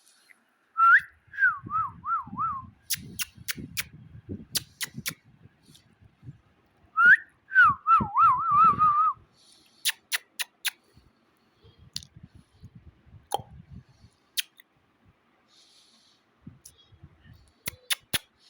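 Pet Indian parrot whistling two short warbling phrases that waver quickly up and down in pitch, one about a second in and another about seven seconds in, with sharp clicks scattered between them.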